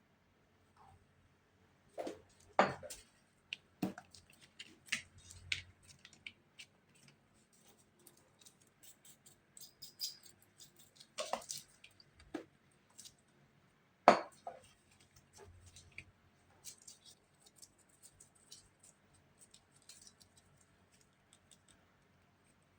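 Scattered knocks, taps and clicks of small hard objects being handled and set down, loudest about two and fourteen seconds in.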